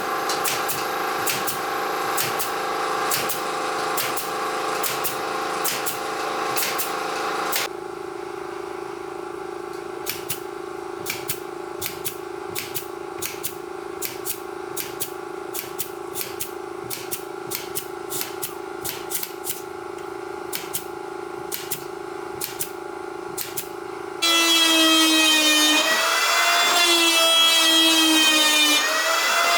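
Woodworking power tool running: a steady machine hum with regular sharp ticks, changing in sound about eight seconds in, then a louder wavering whine near the end.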